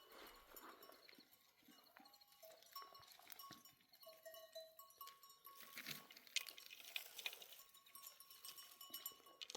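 Faint sounds of a grazing flock of sheep, with light ringing tones of the animals' bells coming and going.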